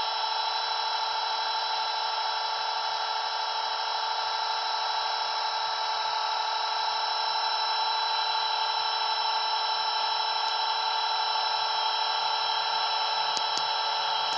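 Blade 230S V2 RC helicopter's electric motor and rotors whining at a steady high pitch as it flies in toward landing.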